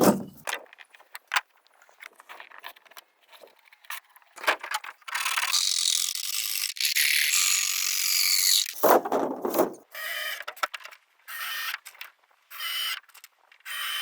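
Tool work on bamboo, mechanical and rasping: scattered clicks and knocks, then a long rasping stretch about five seconds in, and several short half-second bursts near the end.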